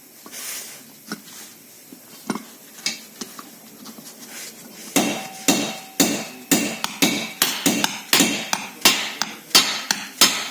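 Hammer striking metal with a ringing clank: a few scattered blows at first, then from about halfway in a fast run of blows, about three a second.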